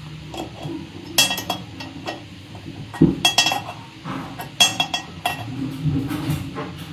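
Hard objects clinking and knocking together in several short clattering bursts, the loudest about three seconds in.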